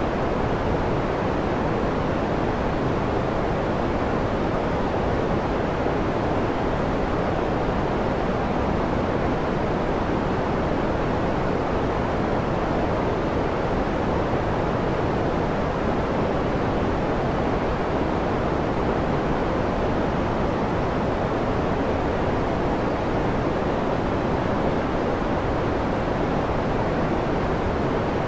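Steady white-noise sleep sound: an even, unchanging hiss with no pulses or breaks, fuller in the lows and mids and soft in the highs.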